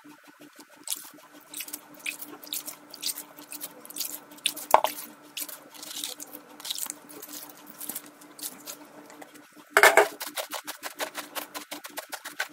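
Salt water sprinkled by hand from a bowl onto cut napa cabbage leaves: irregular drips and splatters, with a louder flurry of splashes about ten seconds in.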